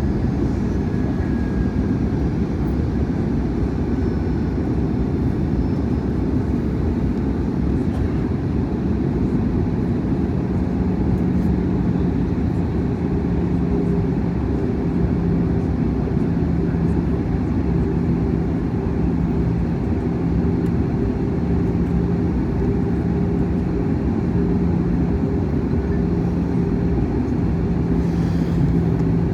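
Airbus A321's cabin noise in flight: a steady low rumble of the CFM56 engines and airflow around the fuselage, with a constant droning hum.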